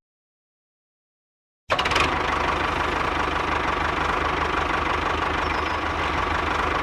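Dead silence, then a small engine cuts in less than two seconds in and runs steadily with a rapid, regular low beat.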